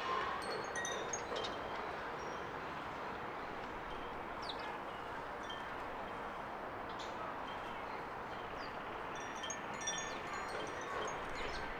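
Outdoor garden ambience: a steady background hiss with short, high tinkling notes that come in clusters near the start and again about ten seconds in.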